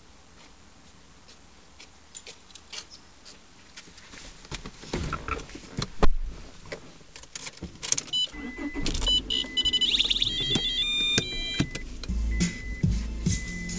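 Handling noises in and around a car: clicks and knocks, with a loud thump about six seconds in. Electronic chime-like tones follow, and then a 2001 Honda Accord's 2.3-litre four-cylinder engine starts about eight seconds in and runs steadily.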